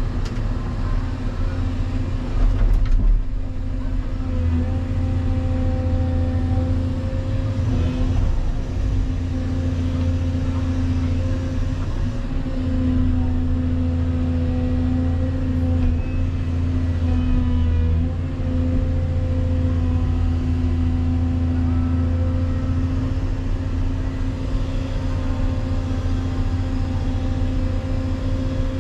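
Volvo EC220EL excavator's diesel engine running under working load, with a steady hum and tones that shift in pitch and strength as the machine works. A thump about three seconds in.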